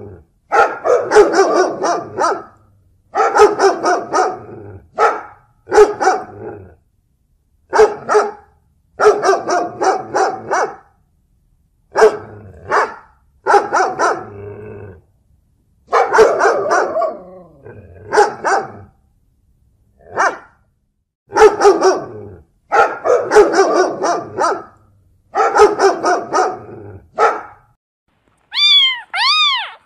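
A dog barking in repeated runs of several quick barks, with short pauses between the runs. A cat starts meowing near the end.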